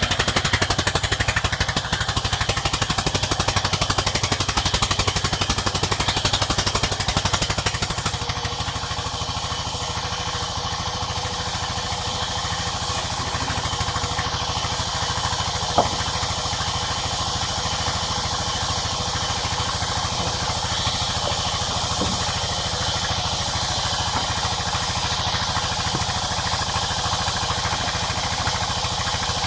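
Sawmill engine running steadily with a fast even pulse. It eases a little about eight seconds in, and there is a single sharp knock about halfway through.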